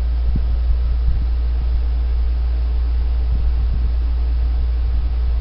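A steady low hum with a faint hiss, and a few faint soft knocks.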